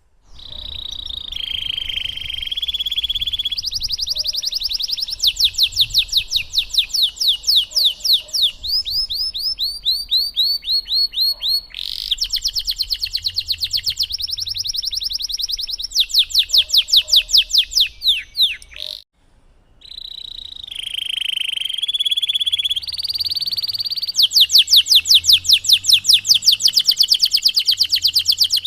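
Domestic canary singing a long, vigorous song of rapid trilled rolls, each run of fast repeated high notes changing pitch from phrase to phrase. The song breaks off briefly about two-thirds of the way through, then starts again.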